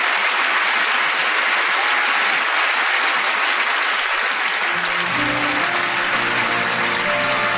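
Theatre audience applauding steadily, with pitched instrumental music coming in underneath about five seconds in.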